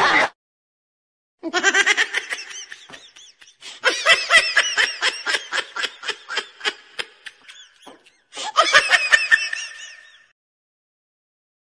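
High-pitched laughter dubbed in as a comic sound effect, in three bursts of rapid 'ha-ha-ha' pulses with short gaps between them.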